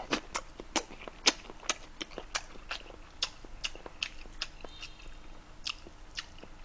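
Close-miked chewing with wet mouth smacks, about two or three a second, while eating a boiled egg dipped in cold noodle broth.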